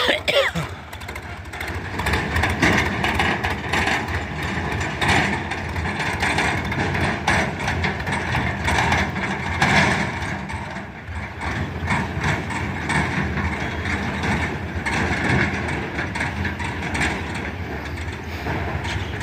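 Sonalika DI 50 tractor's diesel engine running steadily, with frequent irregular clicks and knocks of metal parts over it.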